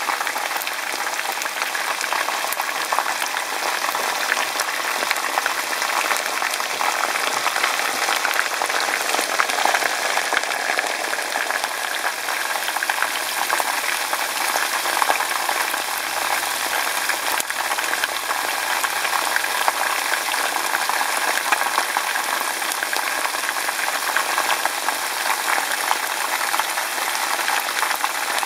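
Pieces of chicken frying in hot oil in a pan: a steady, dense sizzle and crackle of bubbling oil.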